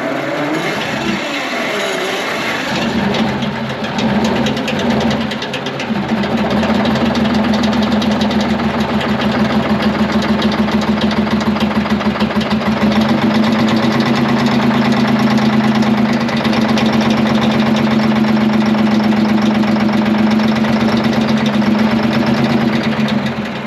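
Twin-turbo 12V71 Detroit Diesel V12 being cranked over on its starter with an even pulsing beat. It gets louder about halfway through and stops abruptly near the end. It is not catching, which the owners put down to a tripped blower air-shutdown flap starving it of air.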